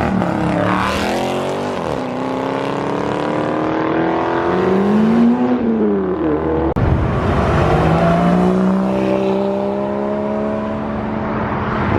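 Cars accelerating hard past one after another, engines revving up and falling back in pitch several times. About seven seconds in there is a sharp click, then a steady engine note that rises slowly.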